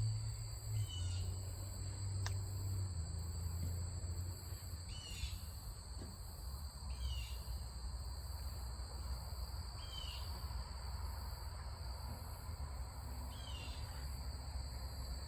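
Steady high-pitched insect chorus, with a bird giving a short falling call every two to three seconds. A low rumble runs underneath.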